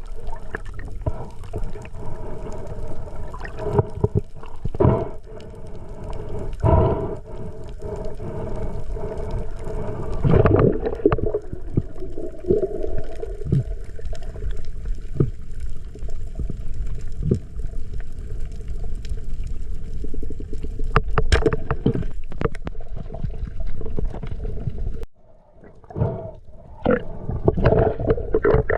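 Muffled underwater noise picked up by a camera in the sea: water rushing and gurgling, with scattered sharp clicks and knocks. The sound drops briefly about 25 seconds in.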